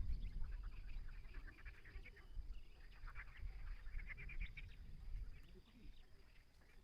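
Animal calls: quick runs of short, high chirps that come in clusters for a few seconds, over a low rumble that fades in the first second or so.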